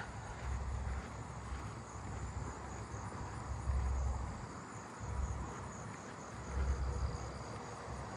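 Crickets trilling in a high, steady chorus, over soft low thumps of footsteps about once a second.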